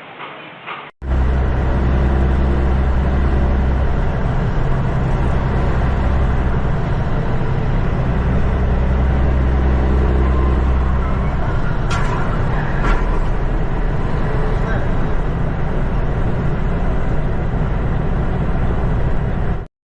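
Loud, steady rumble of a moving vehicle's engine and road noise, with a low hum underneath and two sharp clicks about twelve and thirteen seconds in; it stops suddenly near the end.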